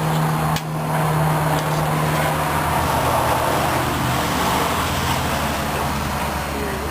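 A machine running with a steady hum; its sound changes abruptly about half a second in.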